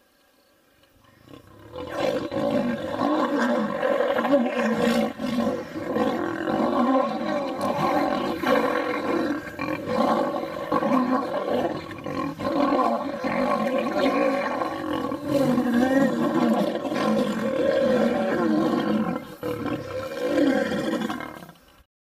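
Male lions fighting, roaring without a break. The sound builds about a second in and cuts off suddenly just before the end.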